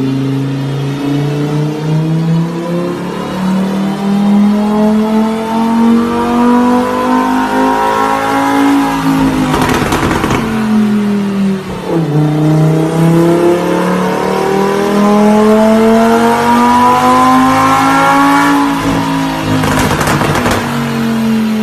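High-performance car engine accelerating hard. Its pitch climbs steadily for several seconds, then falls sharply at an upshift, and this happens twice. A short rush of noise comes at each peak.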